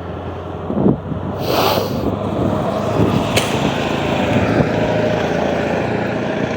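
Road traffic: a motor vehicle passing, its noise building about a second and a half in and then holding steady.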